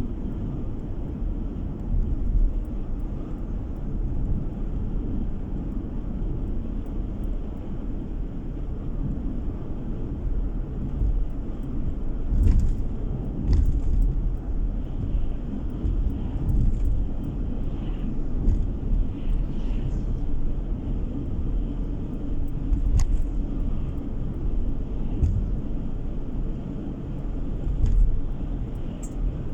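A car driving, heard from inside the cabin: a steady low rumble of road and engine noise, with a few brief knocks, about four of them.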